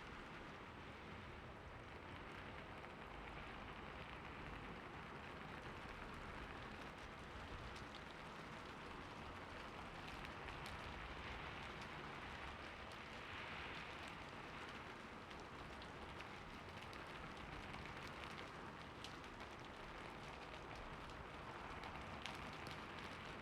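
Steady, fairly quiet rainfall, a constant hiss of rain with scattered individual drops ticking through it.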